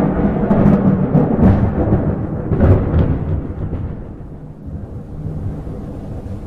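Thunderclap: a loud rolling rumble with sharp cracks in the first three seconds, then dying down to a lower, quieter rumble.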